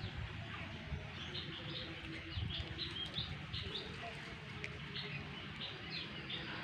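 Birds chirping in many short, high notes, in quick scattered bursts over a low background rumble.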